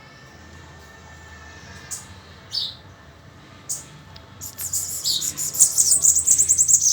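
A young bananaquit (sibite) singing: a few short high calls about two seconds in, then a fast, high trilling song from about four and a half seconds in.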